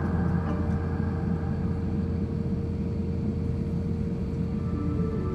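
Steady cabin noise inside an Airbus A350-1000 on the ground: a low hum with a constant whine held at one pitch.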